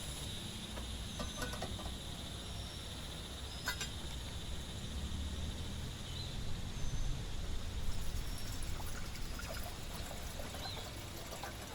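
Steady rain with water trickling and pouring, a steady high-pitched animal chorus running underneath, and a few sharp drips or taps.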